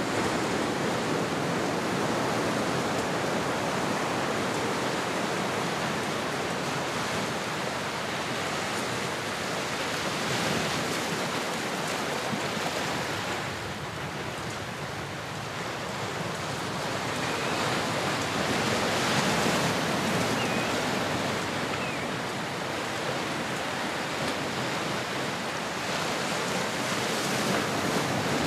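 Ocean waves washing on a shore: a steady rushing surf that swells and ebbs slowly, easing off about halfway through and building again a few seconds later.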